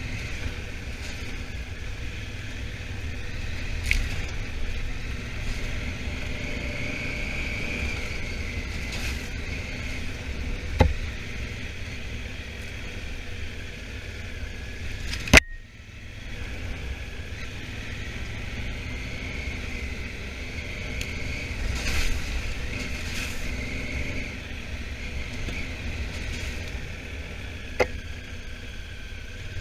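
Honda Africa Twin's parallel-twin engine running on the move, under a steady low rumble. Four sharp clicks stand out, the loudest about halfway through.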